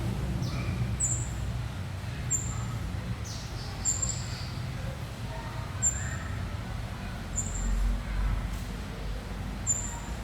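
Young tledekan gunung twittering: short, very high, thin chirps, one every second or two, with a few softer lower notes between them.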